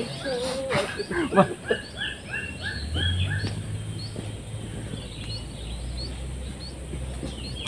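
Birds calling: a quick run of about seven short repeated notes, then scattered higher chirps, over a low steady hum that comes in about three seconds in.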